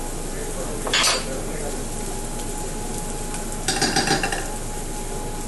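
Onions, garlic, chili and ginger frying gently in oil in a pot, with a steady sizzle. A utensil clinks against the pot about a second in, and a short run of quick scraping clicks follows around four seconds in as the peanut butter is spooned in and stirred.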